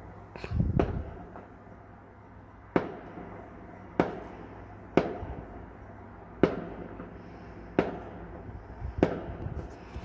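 Bonfire Night fireworks going off: a couple of bangs about half a second in, then six sharp bangs spaced a little over a second apart, each fading quickly.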